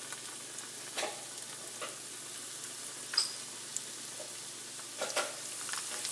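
Pakora batter sizzling as it deep-fries in oil heated to 400 degrees: a steady crackling hiss, with a few light clicks along the way.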